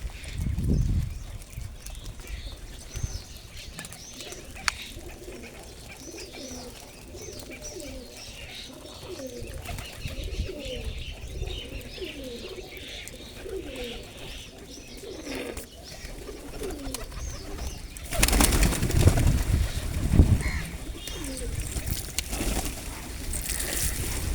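Pigeons cooing, a run of repeated low coos through the middle, with small birds chirping faintly over them. Near the end a loud rumbling noise takes over.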